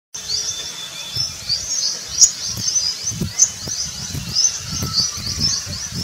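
A chorus of small birds chirping: a fast, unbroken run of short high-pitched notes, with low thumps underneath.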